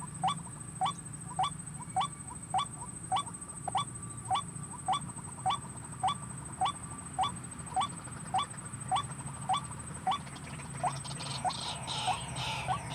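White-breasted waterhen calling: one short upward-sliding note repeated evenly, about one and a half to two times a second, with further calls joining near the end.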